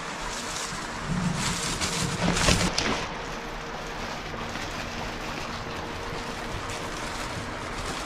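Steady rain hissing, with a louder, rougher stretch and a few sharp knocks about one to three seconds in.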